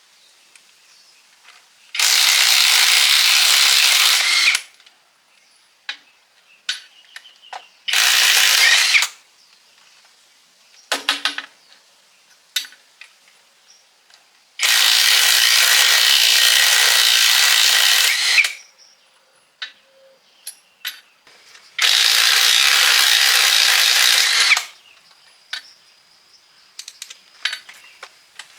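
A power tool run in four bursts of a few seconds each, starting and stopping sharply, with small clicks and knocks of handling between the runs.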